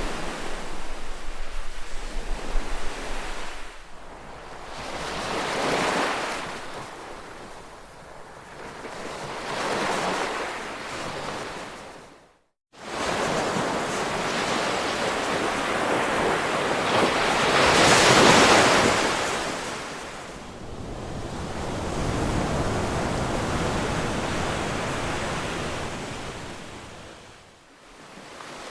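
Ocean waves washing in and receding in slow swells, one surge building louder than the rest about two-thirds of the way in. Near the middle the sound cuts out for a split second, then the waves return.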